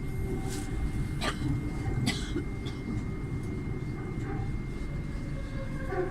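Madrid Metro train running, heard from inside the carriage: a steady low rumble with a thin high whine. Two short sharp sounds about one and two seconds in.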